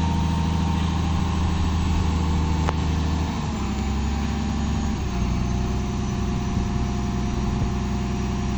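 An engine running steadily, its note stepping lower about three seconds in and shifting again about five seconds in.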